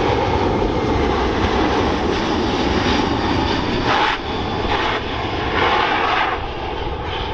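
RAF Boeing C-17 Globemaster III flying by, its four Pratt & Whitney F117 turbofan engines making a loud, steady jet rumble.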